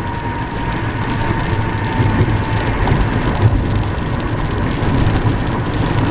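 Car driving in rain, heard from inside the cabin: a steady rumble of tyres on the wet road under the hiss of rain on the car.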